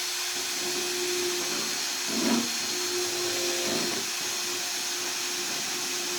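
Electric drill running steadily, drilling out a spot weld in the car's sheet-steel bodywork. There are brief surges about two seconds in and again near four seconds as the bit bites.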